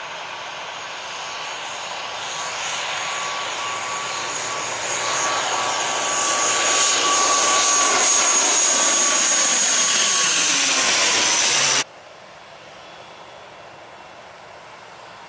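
Jet airliner passing low overhead: the engine whine and rush grow steadily louder, then the whine's pitch drops as it goes by. The sound cuts off suddenly about twelve seconds in, leaving a quieter steady background hiss.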